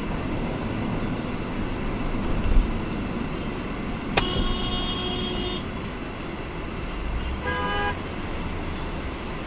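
Steady road and engine noise of a car driving in traffic. About four seconds in a car horn sounds once for roughly a second and a half, and a second, shorter horn blast comes near the eight-second mark.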